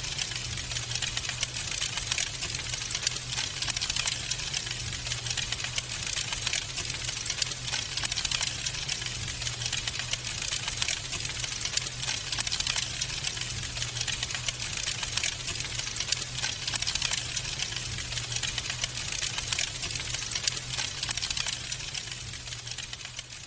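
Wood fire burning in a fireplace, with dense, rapid crackling and popping over a steady low rumble. The fire grows a little quieter near the end.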